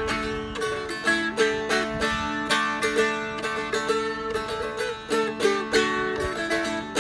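Seagull Merlin, a dulcimer-style guitar tuned D-A-D, being strummed in a quick run of notes, a melody moving over steady ringing drone strings.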